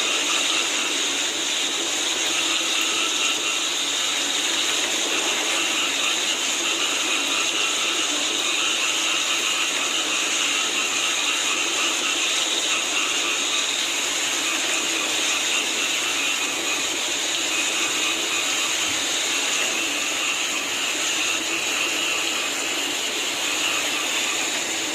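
A dense, steady chorus of frogs calling over falling rain, a continuous trilling wash with no breaks.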